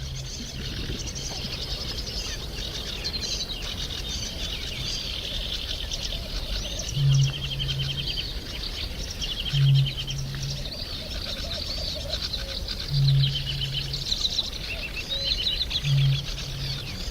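Eurasian bittern booming: four deep, low booms about three seconds apart, each a short loud note followed by a softer drawn-out one. Small birds chatter and trill continuously behind it.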